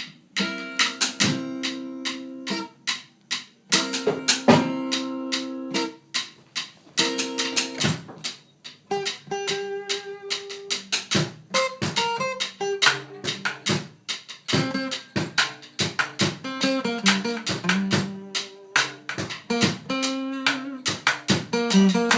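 Music played on a plucked string instrument, guitar-like: sharply struck chords that ring and fade, alternating with runs of single notes, in phrases separated by short pauses.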